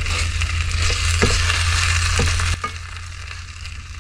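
Chicken stir fry sizzling in the pan, with a few taps of a utensil against it. The sizzle and a low hum beneath it drop off sharply about two and a half seconds in, as the heat is turned off.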